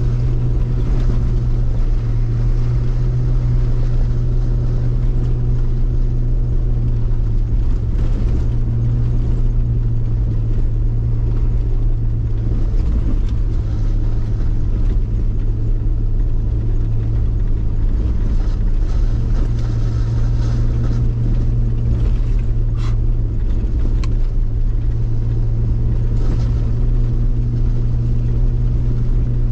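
Jeep Wrangler LJ's engine running steadily under way as it drives a rough forest road, a constant low drone. A couple of sharp knocks about three-quarters of the way through.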